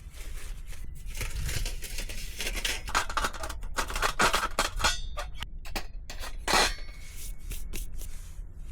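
Irregular clinks, scrapes and rustles of objects being handled, with a few sharper knocks about five to seven seconds in.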